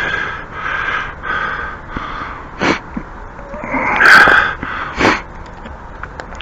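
A man breathing hard in short, rapid breaths while he works, with two sharp knocks, one just under three seconds in and one about five seconds in.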